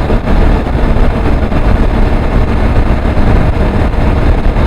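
Motorcycle running at road speed, with a steady rush of wind noise on the microphone.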